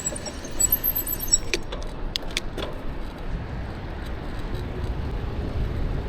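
E-bike brakes squealing in thin high-pitched tones for about the first second and a half. The brakes are bad, squeaky ones. A few sharp clicks follow, then steady low wind and road noise.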